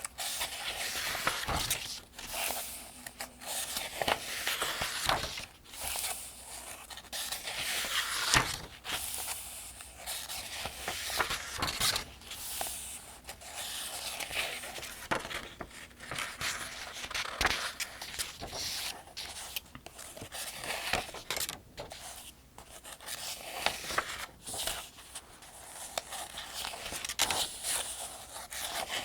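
Paper pages of a Farmers' Almanac being turned one after another, each turn a crisp rustle and flap, repeating every second or two.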